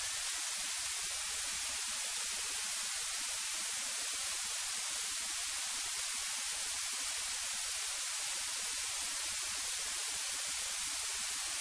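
Steady, even static hiss from the cockpit intercom audio feed, with no engine or other sound on it.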